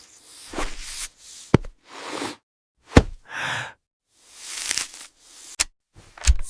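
Cartoon action sound effects: a string of whooshing swells of noise and about four sharp hits and thuds, each cut off into dead silence.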